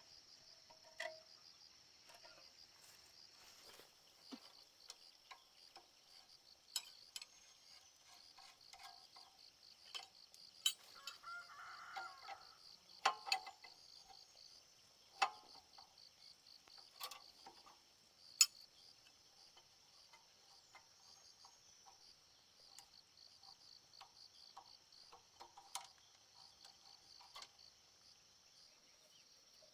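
Insects chirping in a steady, high, fast-pulsed trill, with scattered sharp clicks and knocks, a few louder ones in the middle.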